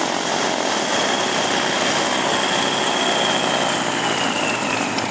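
Aircraft engine running steadily, a loud even noise with a thin high whine that drops slightly in pitch near the end.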